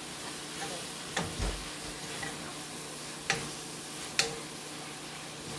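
Ground beef and beaten egg stuffing sizzling in a stainless steel pan while it is stirred with a wooden spatula, with three sharp knocks of the spatula against the pan.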